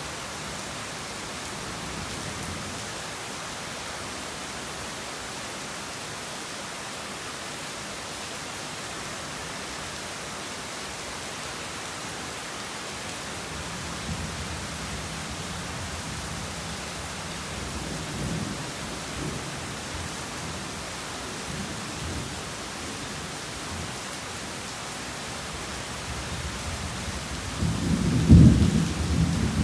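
Steady heavy rain, with low rumbles of thunder from about halfway through and a loud peal of thunder near the end, the loudest sound.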